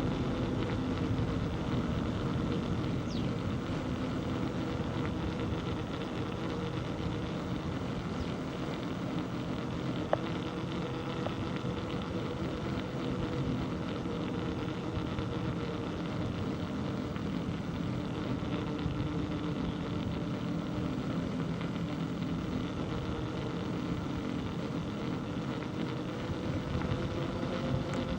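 Steady low mechanical hum with a few constant tones over a rushing noise, the sound of riding along a road. There is one sharp click about ten seconds in.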